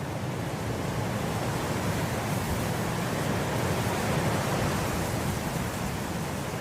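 Wind blowing through grass: a steady, even rush that swells gently to a peak about halfway through, then eases slightly near the end.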